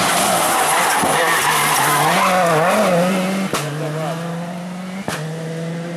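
Rally car engine revving up and down under loud tyre noise, then settling into a steadier note. Two sharp cracks come about a second and a half apart in the second half.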